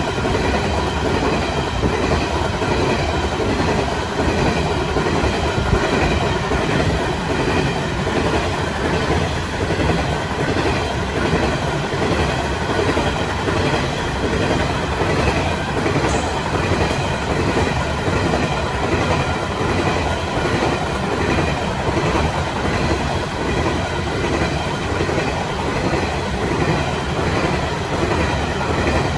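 Coal hopper wagons of a long freight train rolling past, a steady rumble with the repeated clickety-clack of wheels over the rail joints.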